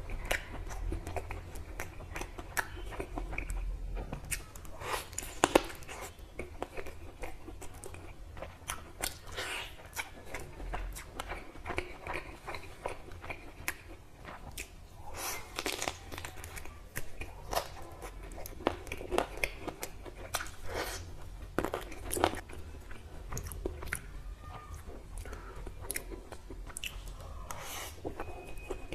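Biting and chewing of sauced barbecue chicken leg pieces: irregular sharp crunches and mouth sounds of chewing.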